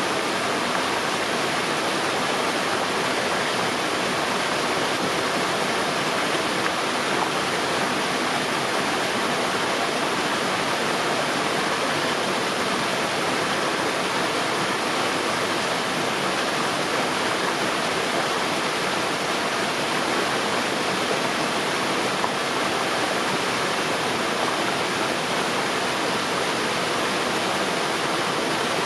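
Waterfall rushing: a steady, unbroken noise of falling water that does not change.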